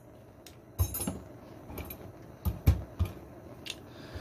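Metal tools and parts clinking and knocking: a handful of short, uneven sharp clicks as pliers and the bent metal piece are handled.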